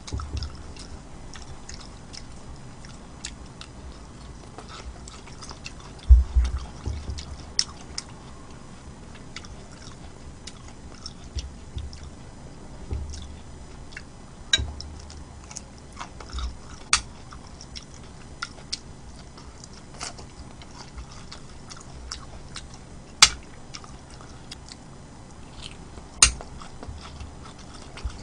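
A person chewing food close to the microphone, with soft low thuds and a scatter of sharp clicks. The loudest clicks come about six seconds in and near the end.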